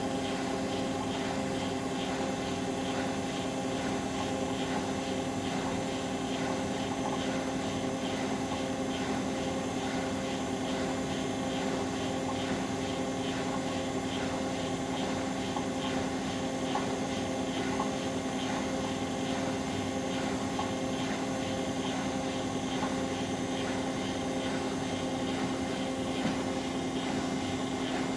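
Bosch Maxx WFL 248Y washing machine running, its motor giving a steady, even hum at one unchanging pitch.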